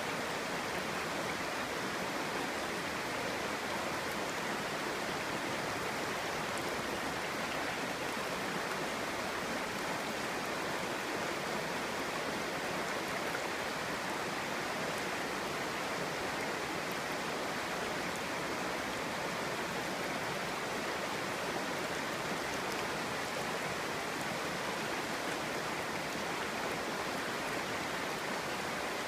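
Clear stream burbling over stones, a steady even rush of running water.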